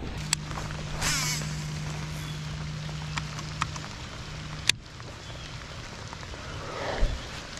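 Steady rain falling on the lake and the boat, with the handling noises of a cast from a baitcasting rod and reel: a brief swish about a second in and several sharp clicks, the loudest a little past the middle. A low hum runs until that click and stops, and a dull thump comes near the end.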